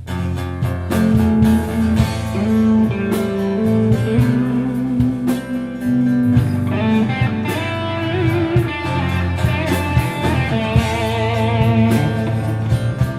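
Rock band music with guitars, bass and drums, no vocals. From about halfway through, a lead guitar plays wavering, bent notes.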